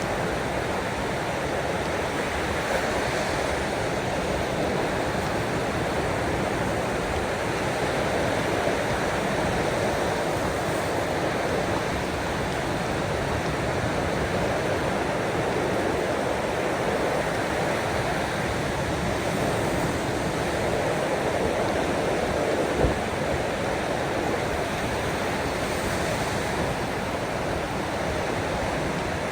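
Ocean waves washing ashore in a steady, even rush of water noise, with one brief knock about three quarters of the way through.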